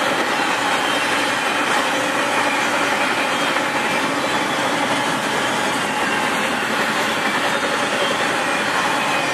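Intermodal freight train of trailers on flatcars rolling past, with steady wheel-on-rail noise from the passing cars.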